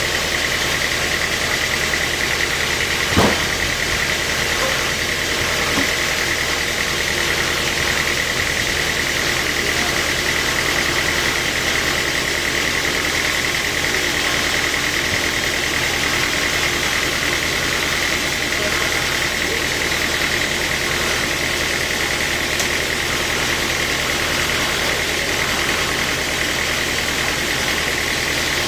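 Sawmill machinery running steadily with a constant hum and a steady high tone, with a single knock about three seconds in.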